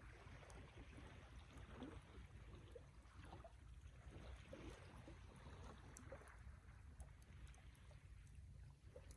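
Faint wood fire burning, with a soft hiss and a few light crackles over a steady low rumble.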